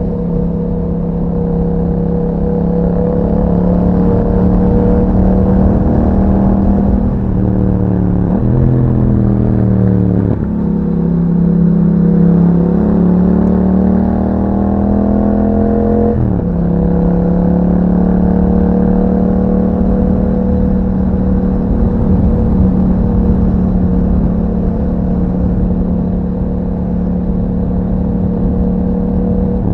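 Yamaha MT-07 parallel-twin engine running through an aftermarket Akrapovic exhaust while riding. It holds a steady engine speed at first, dips around eight to ten seconds in, then climbs steadily and drops sharply about sixteen seconds in, as at a gear change, before settling to a steady cruise.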